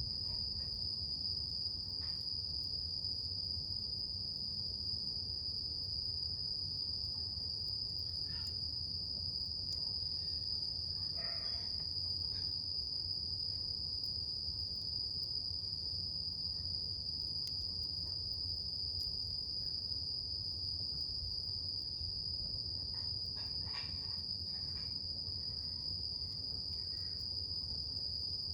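Insects trilling steadily at one high pitch, with a few faint crackles from a wood campfire now and then.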